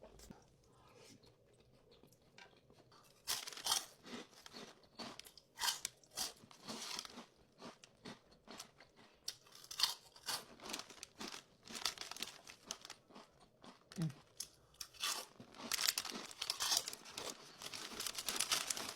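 Close-miked crunchy chewing and biting of crisp food, starting about three seconds in and going on in irregular crackly bites and chews.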